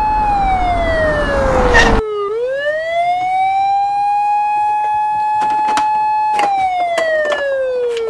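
A siren sound effect wailing slowly: the tone falls over a low rumble that cuts off abruptly about two seconds in, then rises, holds steady and falls again. A few light clicks sound near the end.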